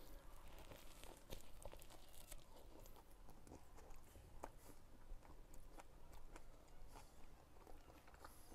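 Faint chewing of a mouthful of chicken sandwich, with scattered small crunches of the crusty bread.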